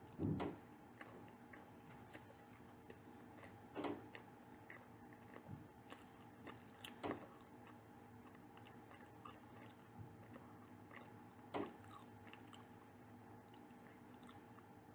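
Close-miked eating: a person biting into and chewing bakery pastry, with four louder bites or mouth sounds a few seconds apart and faint chewing clicks between.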